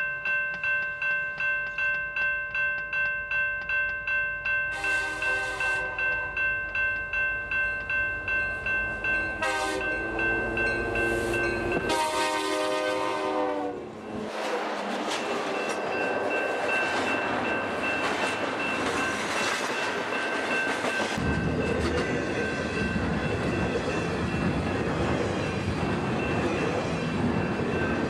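BNSF GE C44-9W freight locomotive sounding its horn as it approaches at speed: three blasts, the last long and dropping in pitch as the locomotive passes about halfway through. A loud rush of wheels, passing cars and blowing snow follows, with a heavier rumble near the end. A bell rings steadily at a fixed pitch throughout.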